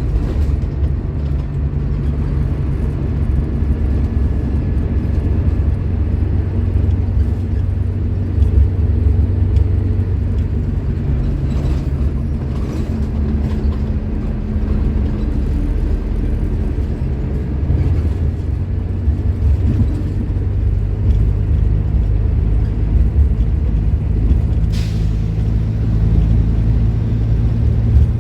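Scania K310IB bus's nine-litre five-cylinder diesel engine running under way, a steady low drone that shifts in pitch now and then as the revs change. A brief hiss of air about 25 seconds in.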